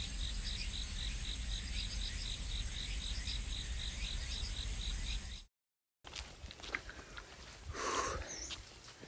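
Insects calling: a steady high-pitched buzz with a pulsed chirping on top, about four chirps a second. It cuts off about five and a half seconds in, and after a short silence there are quieter scattered ticks, a brief rustle and a couple of short chirps.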